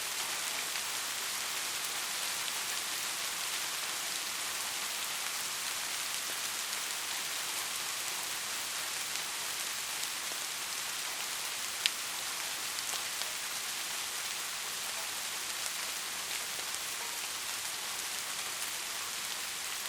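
Steady rain falling, a dense even patter with faint scattered drop ticks. There is one sharp, louder tick about twelve seconds in.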